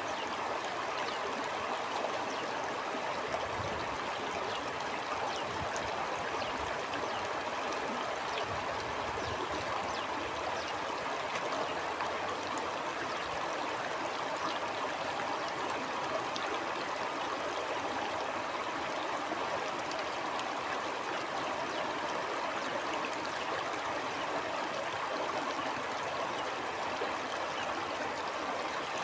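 Shallow stream flowing steadily, an even rushing with fine trickling and gurgling.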